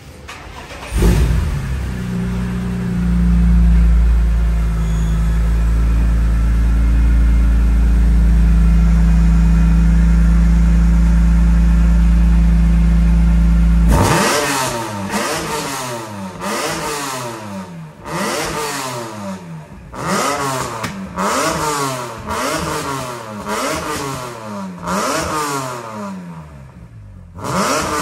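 BMW E46 M3's S54 inline-six breathing through an aftermarket Emil performance exhaust: it fires up about a second in, idles steadily, then from about halfway is given a series of quick throttle blips, the revs rising and falling about once a second.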